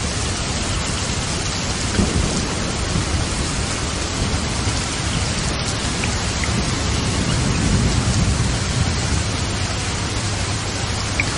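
Steady heavy rain with low rumbles of thunder, one swelling about two seconds in and a longer one around eight seconds in.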